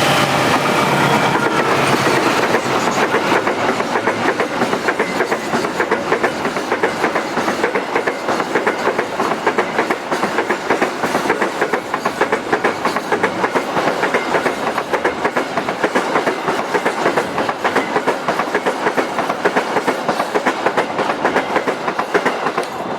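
Train passing close by, its wheels clattering rapidly and without a break over the rail joints. A few steady tones fade out in the first second or two.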